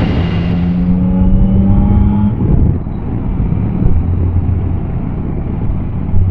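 Motorcycle engines: one accelerates with a steadily rising note for about two seconds and breaks off, then a lower steady engine note runs on.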